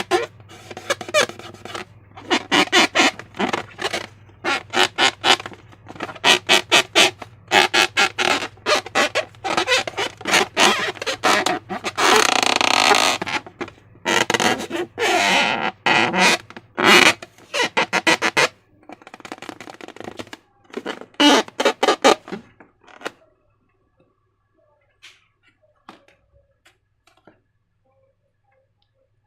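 Slime being squeezed and squished by hand, squelching with rapid trains of small wet pops and crackles, and a longer hissing squelch about 12 seconds in. It dies down to a few faint clicks over the last seven seconds.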